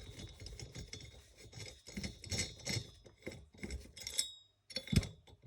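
Small tools and metal engine parts being handled on a workbench: a string of clicks, clinks and light scraping, with a brief metallic ring about four seconds in and a sharper knock about five seconds in.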